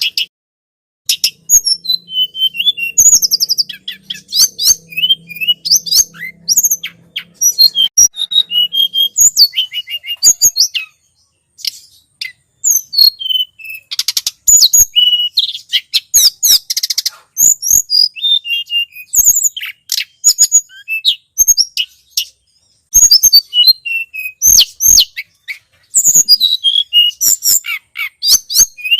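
Tledekan gunung bird-lure recording: a small songbird's rapid, high-pitched chirping and twittering, run together in fast bursts with short pauses about 11 and 22 seconds in.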